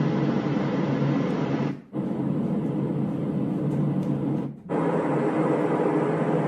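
A white noise machine's speaker playing steady rushing noise at full volume. It cuts out briefly twice, about two seconds in and again near five seconds, each time coming back as a different noise sound as the machine is stepped through its tracks.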